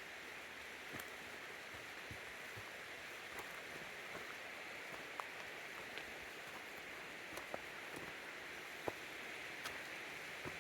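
A stream running steadily, with a few faint, irregular ticks scattered through it.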